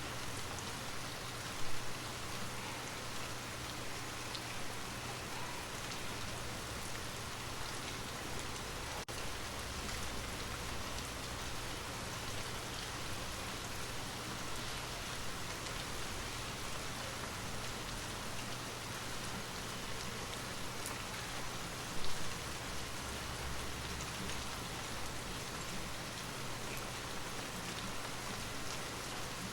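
Steady rain, a continuous hiss of falling drops, with two brief louder spikes, one about two seconds in and one about twenty-two seconds in.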